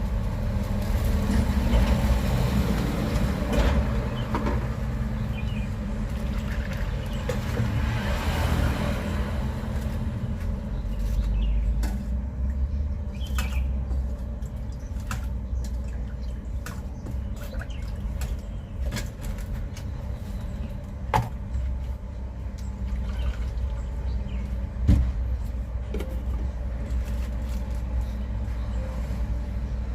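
Motor traffic running and passing, a steady low rumble that swells in the first few seconds and then eases. Scattered short clicks and knocks over it, with a sharper knock about 21 seconds in and again near 25 seconds.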